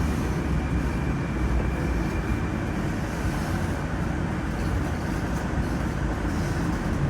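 Metro train running, heard from inside the car: a steady rumble of wheels on rails, with a faint high whine through the first few seconds.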